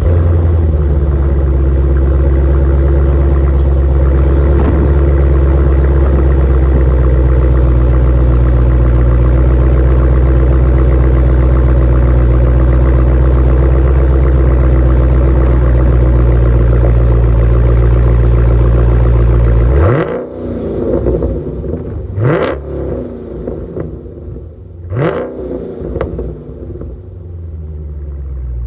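Dodge Challenger Scat Pack's 392 Hemi V8 running at a loud, steady fast idle just after starting. After about twenty seconds the note drops, then two quick throttle blips rev it up and let it fall back.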